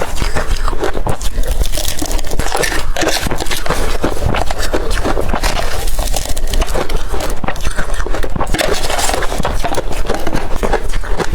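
Blender-crushed ice being bitten and chewed: a loud, dense, irregular run of crisp crunches.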